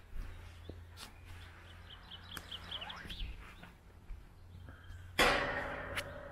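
Small birds chirping, with a quick run of short high notes midway, over a low steady hum. About five seconds in a loud, harsh cry breaks out suddenly and fades over about a second.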